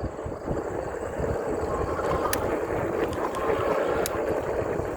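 Wind on the microphone and steady rumble while riding an e-bike, with two sharp clicks, one about halfway through and one near the end.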